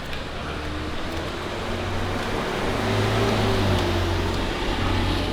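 Steady low hum of a motor vehicle engine running, over general street noise.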